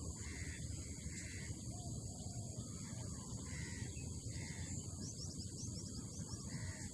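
Spotted dove (tekukur) cooing faintly in short repeated coos, with other birds calling and a brief run of high chirps about five seconds in, over steady outdoor background noise.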